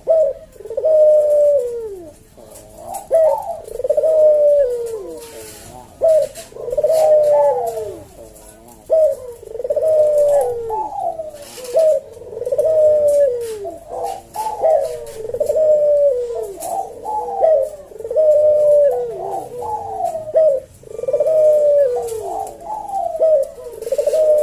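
Puter dove (Barbary dove) singing its slow 'kuk deruk' coo: a steady run of repeated coos, one close after another, each falling in pitch.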